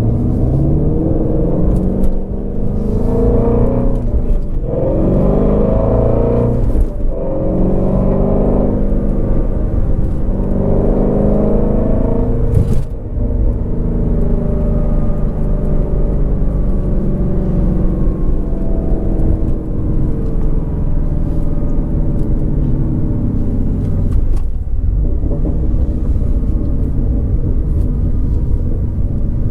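2019 Shelby GT350R's 5.2-litre flat-plane-crank V8 accelerating through the gears of its six-speed manual, the pitch climbing in each gear and dropping at each upshift, with short sharp cracks at some of the lifts. About halfway through it settles to a steady cruising drone.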